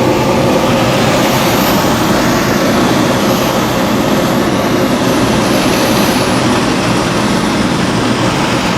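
Steady, loud rushing noise inside the cockpit of a motor glider landing with its engine shut off.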